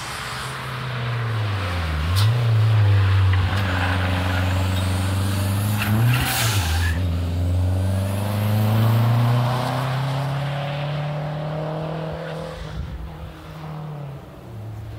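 Rally car engine at full throttle, accelerating hard; its pitch drops at an upshift about two seconds in and again about six seconds in, with a brief hiss at the second shift. It then holds a high pitch and fades away near the end.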